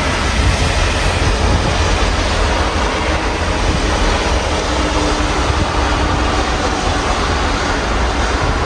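Steady rain heard through an open window, a constant hiss over a deep, continuous rumble.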